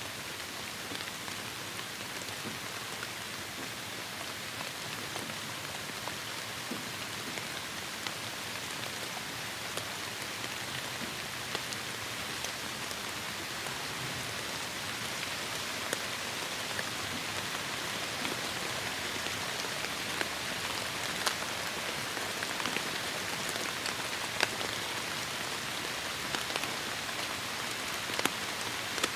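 Heavy rain falling, a steady hiss with scattered sharper drops ticking on nearby surfaces, growing a little louder and with more distinct drops through the second half.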